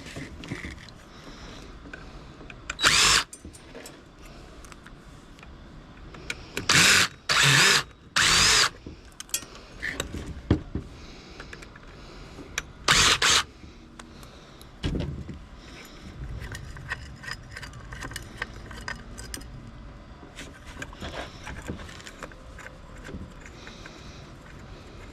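Power drill running in five short bursts of about half a second, one about 3 s in, three in quick succession around 7 to 9 s, and one around 13 s, as fasteners are driven out while scrap is taken apart. Light clinks and rattles of small metal parts between the bursts.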